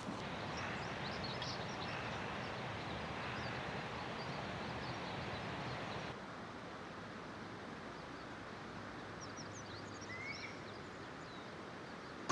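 Steady outdoor background noise with small birds chirping faintly now and then. The noise drops a little about six seconds in.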